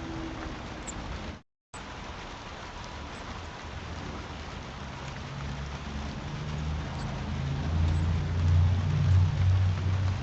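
A steady outdoor hiss with a sharp dropout about a second and a half in, and a low rumble that grows louder over the second half.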